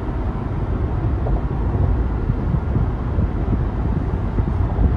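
Steady low road and wind rumble inside a four-wheel-drive SUV's cabin while driving at highway speed.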